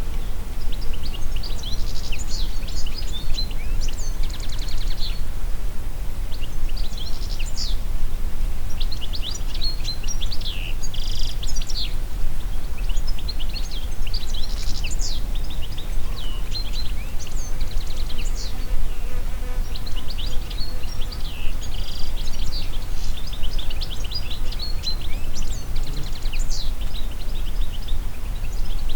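Several songbirds chirping and singing, their calls and quick trills overlapping throughout, over a steady low rumble of wind moving through the trees.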